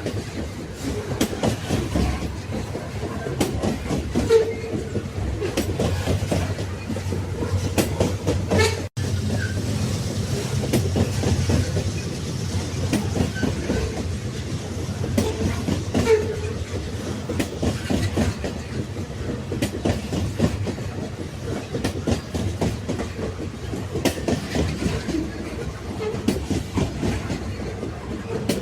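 Railway carriages running along the track: a steady rumble with dense clattering of the wheels over the rails. The sound breaks off for an instant about nine seconds in.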